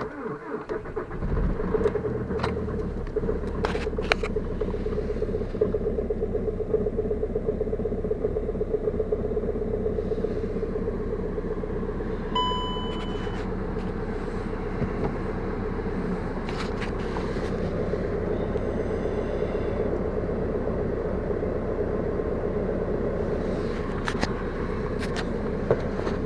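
Volkswagen Passat B6's 1.9 TDI (BKC) four-cylinder diesel engine starting from cold at about −25 °C: it fires right at the start and settles within a couple of seconds into a steady idle. A short beep sounds about twelve seconds in.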